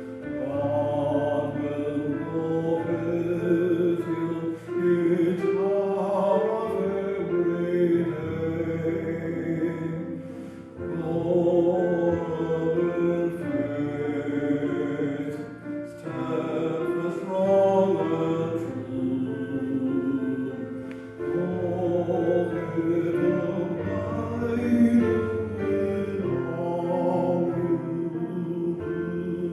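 A choir singing slowly in long held phrases, each about five to six seconds, with brief breaks between them.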